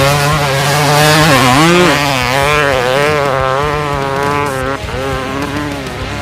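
Dirt-bike engine sound revving, its pitch rising and falling repeatedly, easing off somewhat in the second half.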